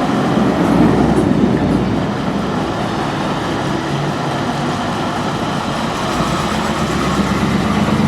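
A car engine running, a steady low rumble with noisy rushing over it.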